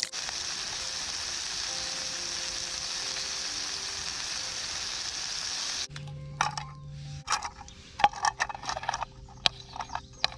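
Sausage patties sizzling in a pan over a campfire, a steady hiss. About six seconds in this gives way to a utensil scraping and clinking against the pan.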